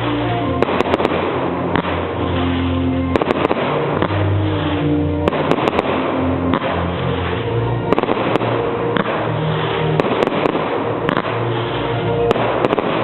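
Aerial display fireworks bursting over music: sharp bangs come at irregular intervals, often in quick clusters of two or three, while the music's held notes continue underneath.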